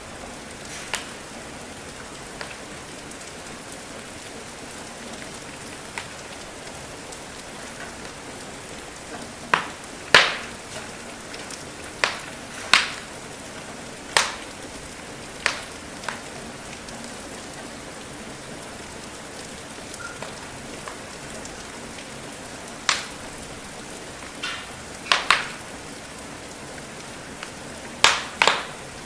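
Steady rain hiss with irregular sharp crackles and pops from a wood fire burning in a fireplace, several of them close together and louder than the rain.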